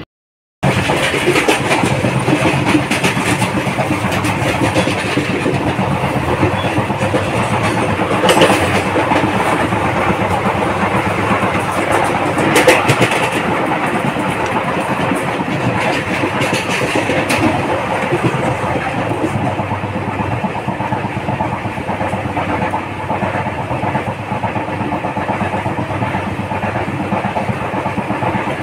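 Running noise of the Unchahar Express passenger train heard at an open coach door: steady clatter and rattle of wheels on rail, with a few sharper clanks. It starts abruptly, is densest while covered freight wagons pass close alongside on the next track, and eases a little about two-thirds of the way through.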